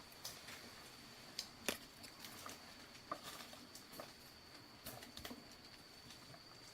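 Scattered light clicks and crackles, irregular and fairly quiet, the sharpest about two seconds in, over a faint steady high-pitched tone.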